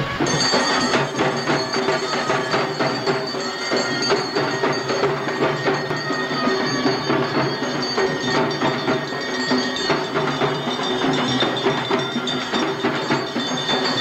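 Music carried by dense, rapid percussion strikes, with steady ringing bell-like tones held over it.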